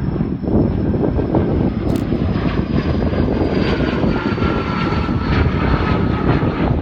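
Jet engines of a Boeing 757-200F freighter at takeoff power: a loud, steady roar with a high whine that slowly falls in pitch as the aircraft goes by.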